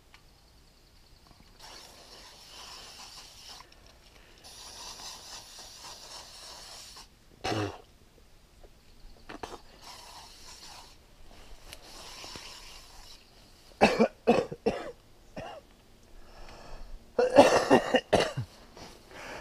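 Aerosol bug spray hissing in several bursts, followed by a person coughing repeatedly in loud short fits.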